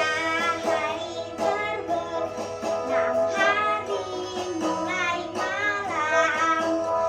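A voice singing a children's song in phrases over guitar accompaniment.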